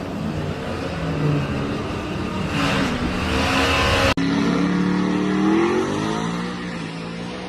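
Twin-turbocharged 5.0 Coyote V8 in a Ford F-150 accelerating hard, its engine note rising in pitch. There is an abrupt cut about four seconds in, then another rising pull that eases off near the end.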